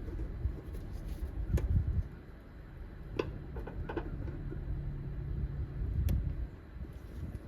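A few sharp clicks and light knocks from hands and tools working a plastic electrical connector clip loose in the engine bay, over a low, uneven rumble of handling noise.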